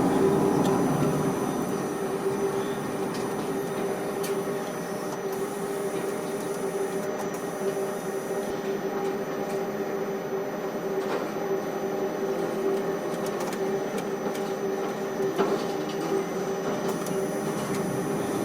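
Ship-to-shore quay crane machinery running steadily: a constant electric hum and whine over a mechanical rumble, with a few faint knocks.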